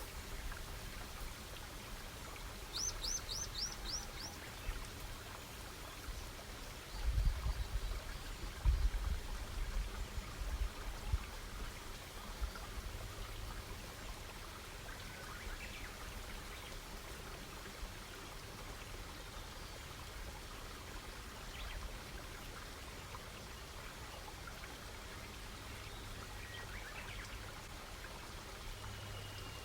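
Campfire crackling steadily, with a bird giving a quick run of five high chirps about three seconds in and a few faint calls later. Between about seven and eleven seconds there are several low rumbling bumps, louder than the fire.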